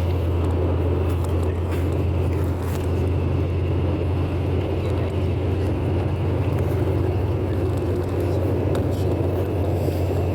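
Steady storm noise at night: a constant deep rumble under a dense hiss, with faint scattered ticks.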